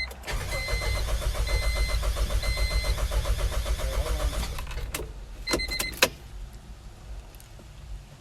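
1997 Honda CR-V's starter cranking its four-cylinder engine for about four and a half seconds without it catching, as it fails to start with water from pressure washing suspected in the ignition. A warning chime beeps repeatedly during the cranking, and a few sharp clicks follow once it stops.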